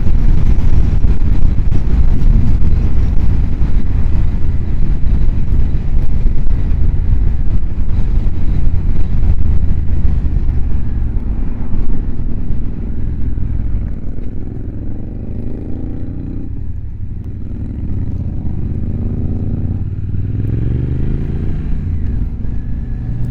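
Motorcycle riding at speed, recorded on a helmet microphone heavily buffeted by wind. About two-thirds of the way in the wind drops, and the engine's pitch falls and then rises again as the bike slows and picks up speed.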